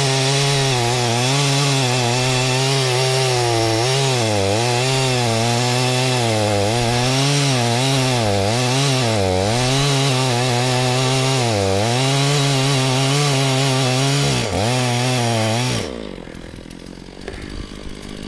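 Stihl MS460 two-stroke chainsaw running at full throttle, cutting through an elm firewood round. The engine pitch dips and recovers every second or two as the chain works through the wood. The engine sound drops away abruptly near the end.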